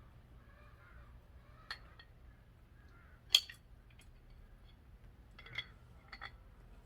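Metal tools and parts clinking as they are handled during engine reassembly: four or five short sharp clinks, the loudest about a third of the way in, over a low steady hum.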